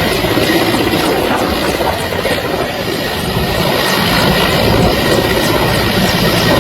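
Helicopter running steadily, its rotor and engine noise loud and unbroken.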